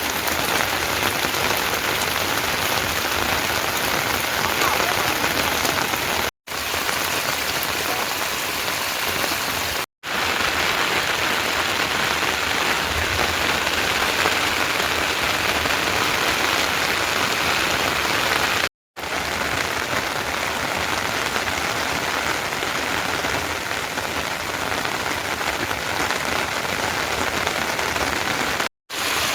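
Steady heavy rain falling, an even hiss of drops that cuts out to silence for a split second four times.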